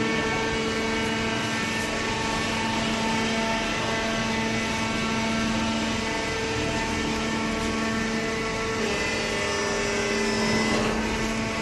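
Hydraulic baler's pump and motor running with a steady whining hum; its tone shifts about nine seconds in and again near the end.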